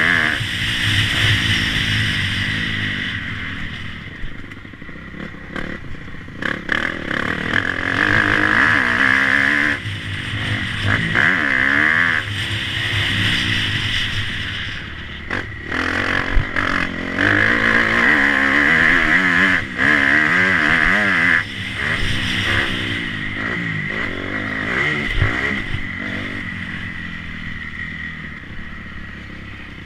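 Motocross bike engine revving up and dropping back again and again, its pitch rising and falling with the throttle, with scattered knocks and clatter. It grows louder and fainter by turns.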